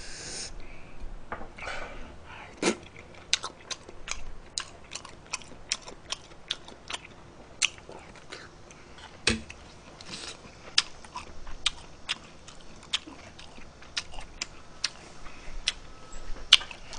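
A man chewing a mouthful of fried rice close to a microphone, with many short, irregular wet mouth clicks and smacks.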